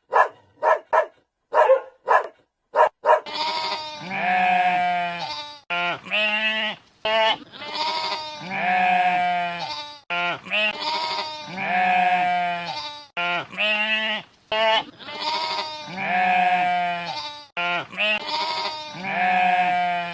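A dog barks in quick short barks for the first three seconds. Then a goat bleats in long wavering calls that repeat in the same pattern about every four seconds.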